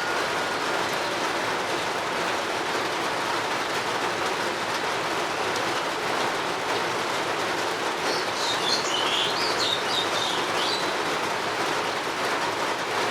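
Steady rain falling, an even hiss. About eight seconds in, a bird sings a short run of quick high chirps lasting about three seconds.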